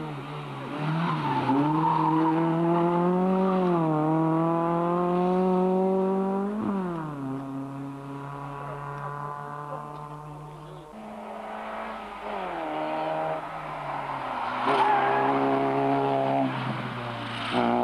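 Rally car engine working hard under load. Its pitch climbs and falls repeatedly, with sudden drops at gear changes about a third and two thirds of the way through.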